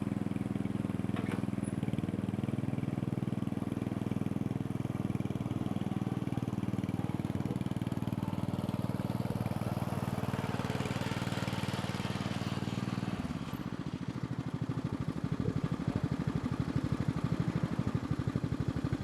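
Lawn mower engine running steadily. About thirteen seconds in, its note changes to an evenly pulsing chug.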